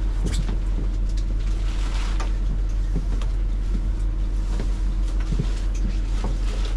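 Bus engine running with a steady low hum, heard from inside the bus, with a few light knocks and rattles scattered through it.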